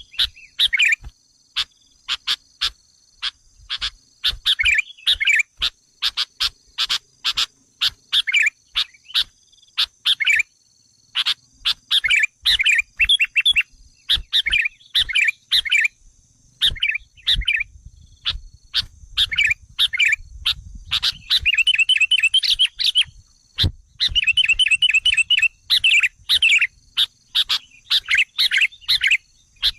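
Sooty-headed bulbul (kutilang) lure calls: short chattering phrases repeated over and over, mixed with sharp clicks, with rapid trilled runs in the second half. This is the excited calling used to provoke wild bulbuls.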